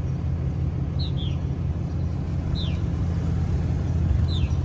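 A vehicle engine idling with a steady low rumble, while a bird repeats short high downward chirps about once a second.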